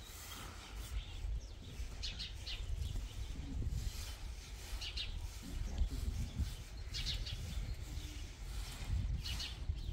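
Small birds chirping in short bursts every couple of seconds over a steady low rumble.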